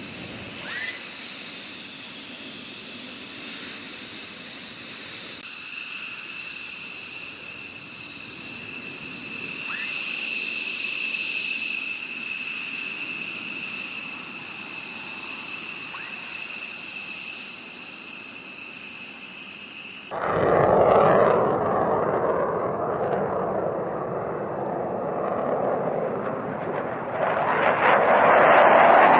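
Jet aircraft engines: a steady high-pitched turbine whine, then, after an abrupt change about two-thirds of the way through, a much louder rushing jet noise.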